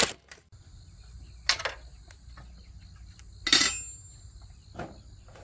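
A few sharp metallic clinks and knocks, three in all, the middle one loudest with a short ring, like tools or metal parts being handled. Under them runs a steady high-pitched insect drone.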